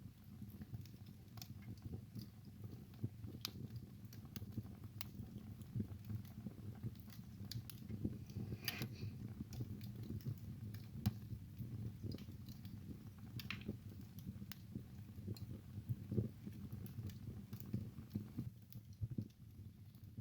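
Wood fire burning in a fireplace: a low, steady rumble of flames with frequent irregular crackles and pops from the burning logs, a short cluster of pops about nine seconds in.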